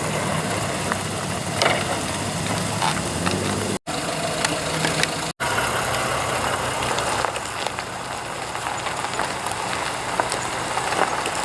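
Car engine idling steadily under a background hiss of outdoor noise, the sound cutting out completely for an instant twice in the middle.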